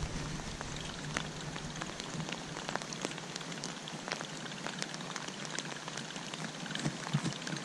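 Steady rain falling on a pond and around the listener: an even hiss with many scattered sharp ticks of individual drops striking close by.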